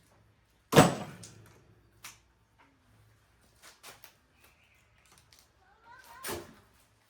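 A sharp metal clank about a second in that rings briefly, then several lighter clicks and a second clank near the end, as metal engine parts and tools are handled during an engine teardown.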